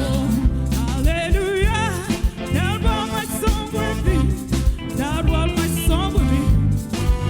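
Gospel music with a band: a lead voice singing with strong vibrato over steady bass and drums.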